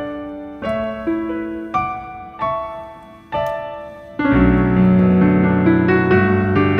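Background piano music: single notes struck one after another and dying away, then about four seconds in a louder, fuller passage with low bass notes comes in.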